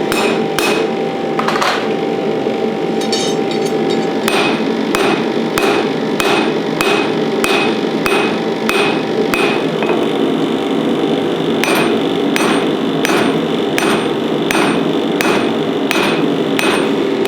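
Hammer blows on spring steel at the anvil, each strike ringing briefly, about one to two a second with a pause about ten seconds in, over a steady rushing noise.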